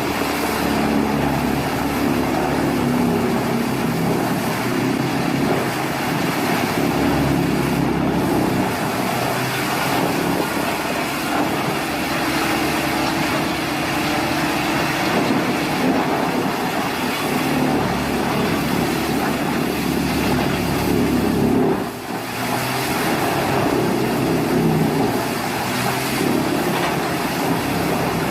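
Heavy machinery running steadily, a loud engine with a continuous rumble and clatter, dipping briefly about 22 seconds in.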